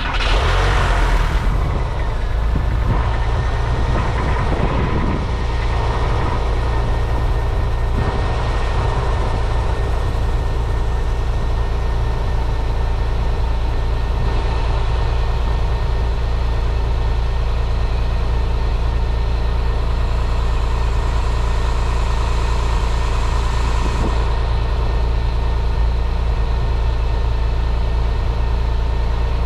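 A 2000 Porsche 911's flat-six engine on a cold start. It catches right at the start with a flare of revs that settles over the first few seconds into a steady fast idle.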